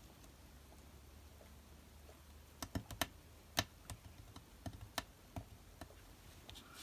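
A run of about ten sharp, light clicks and taps at an uneven pace, starting a little over two seconds in and stopping about two and a half seconds later.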